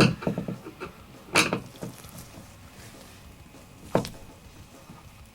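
Three sharp knocks on a wire closet shelf and its wall fixings as they are pushed and tugged to test that the freshly tightened toggle bolts hold. The first knock is the loudest and is followed by a brief rattle; the others come about a second and a half and four seconds in.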